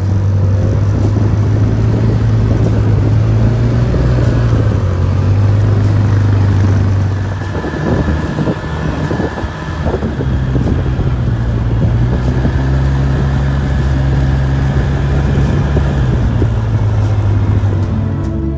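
ATV engine running steadily, with wind on the microphone. It eases off for a couple of seconds about eight seconds in, then runs steadily again.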